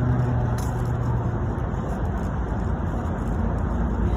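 Steady low rumble of a truck moving slowly up an incline, with a low hum that fades about a second and a half in.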